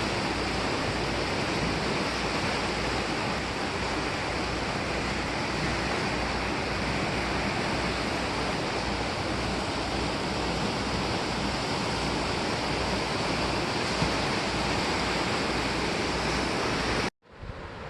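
Steady rushing roar of sea surf breaking on the shore, an even wash of noise with no single wave standing out. It cuts off abruptly near the end and comes back quieter.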